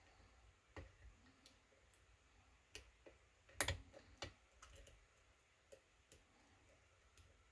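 Faint, irregular metallic clicks and ticks of a lock pick and tension wrench working the pins of a kick cylinder lock, about a dozen spread unevenly, the loudest a little over three and a half seconds in.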